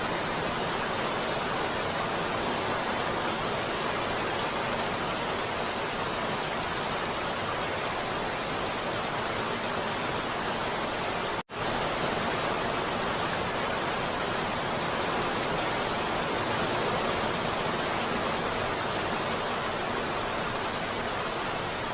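Heavy rain falling steadily, an even hiss of water, broken once about halfway through by a split-second dropout.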